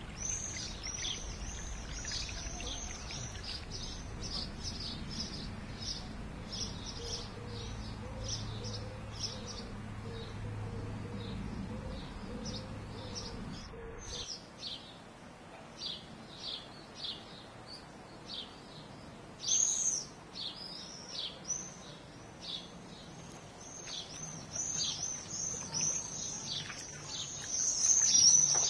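Birds chirping: a quick run of short, high calls, loudest near the end, over a low rumble of background noise that stops about halfway through.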